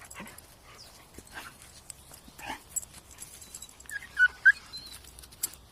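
A dog whimpering: two short, high whines a little after four seconds in, with faint scuffling and clicks before them.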